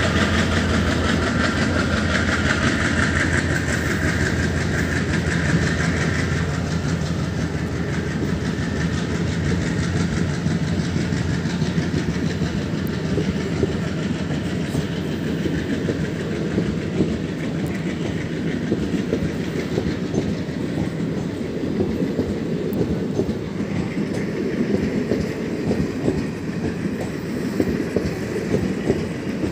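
Passenger coaches of a departing diesel-hauled train rolling past, with a steady rumble and the wheels clattering rhythmically over the rail joints. A low drone and a higher whine fade out over the first several seconds.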